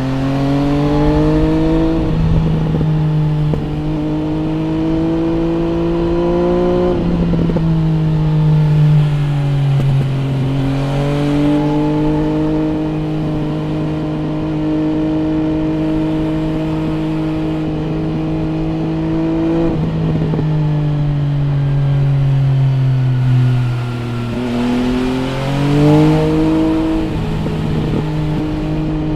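MV Agusta Brutale 800 RR's three-cylinder engine, through an aftermarket three-outlet exhaust, heard onboard while riding. The pitch rises and falls with the throttle: climbing in the first seconds, dropping about eight to ten seconds in and again about twenty-one to twenty-four seconds in, and holding steady while cruising in between.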